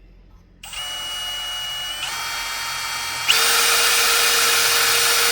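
Power drill running with a steady whine that starts about half a second in, then speeds up and gets louder in two steps, about two seconds in and again a little after three seconds.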